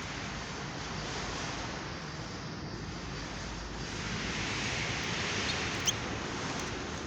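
Steady rushing background noise, with a short, high bird chirp or two from a caged bird about six seconds in.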